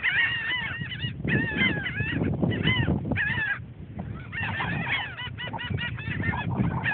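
Birds calling repeatedly in short pitched calls, several overlapping, over a low rumble of wind or handling noise.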